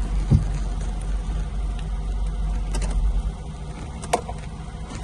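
Hyundai Coupe's 2.0-litre G4GC four-cylinder petrol engine idling steadily, with a few light clicks.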